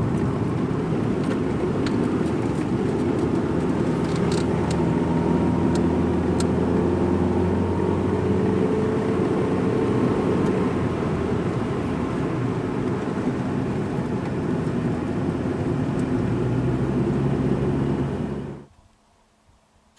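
Strong wind buffeting the microphone: a loud, steady low rumble with a few faint clicks, cutting off suddenly near the end.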